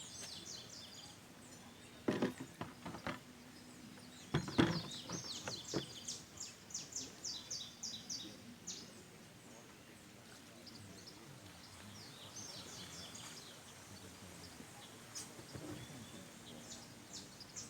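Birds chirping in rapid runs of short high notes, in several bursts, over a faint outdoor background. A few sharp knocks about two seconds in and again near the fifth second; the one near the fifth second is the loudest sound.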